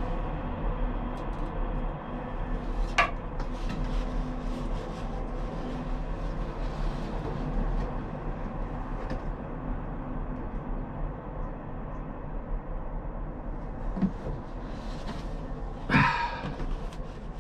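Steady low mechanical hum, with a few light metallic knocks and a louder clatter near the end.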